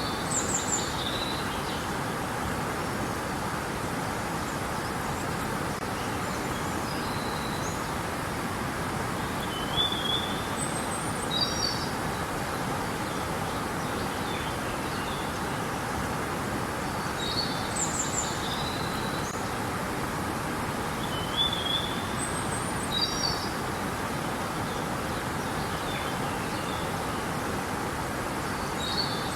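Steady rushing of river water, with short high bird chirps in small groups every few seconds.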